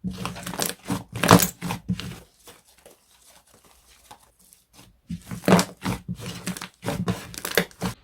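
Slime being squeezed, pressed and pulled apart by hand, giving crackly tearing and popping sounds in two bouts with a couple of seconds of near quiet between them.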